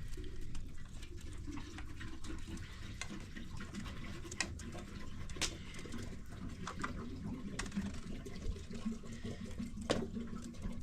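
Water running and splashing, with a few sharp knocks.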